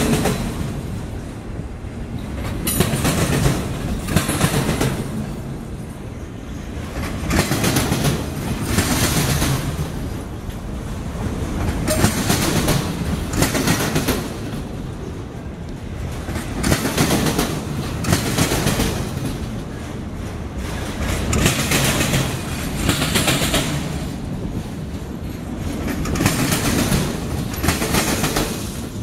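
Freight train of enclosed autorack cars rolling past close by: steel wheels clattering over the rails, the sound swelling and fading about every two to three seconds.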